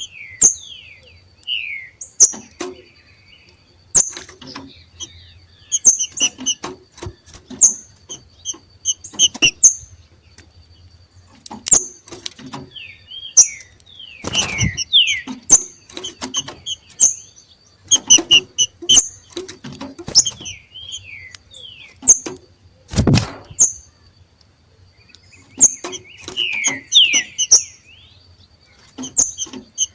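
Two green-winged saltators (trinca-ferro) giving their 'macheado' call, the excited call of birds coming into breeding condition: bursts of short, sharp high chirps mixed with quick falling whistles, repeated every second or two. Two dull thumps stand out, about halfway through and again a little past two-thirds of the way in.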